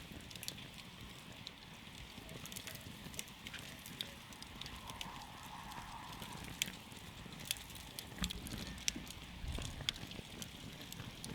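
Wood campfire crackling: irregular sharp pops and snaps over a low, steady rumble of the burning fire.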